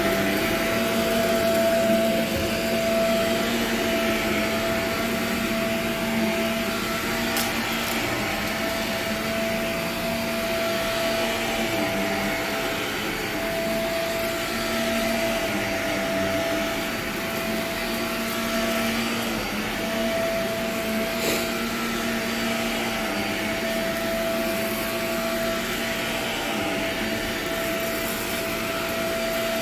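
Vacuum cleaner running steadily over old nylon carpet with a constant motor whine, crunching on grit with a couple of brief crackles.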